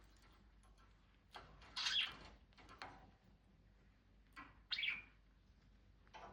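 A pet cockatiel making a few short, sharp sounds. The loudest come about two seconds in and again just before five seconds, with smaller ones between.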